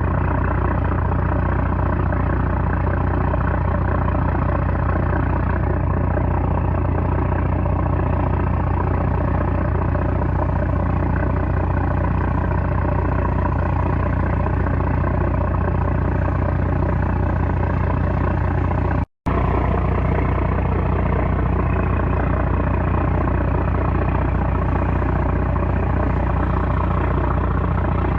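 A 330-horsepower small trawler's diesel engine running steadily, with a deep, even hum. The sound drops out completely for a split second about two-thirds of the way through, then resumes unchanged.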